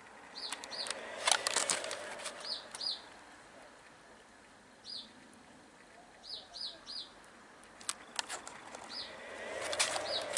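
A small bird chirping repeatedly in short, high notes, often in pairs or threes. Brief bursts of rustling clatter come about a second in and again near the end.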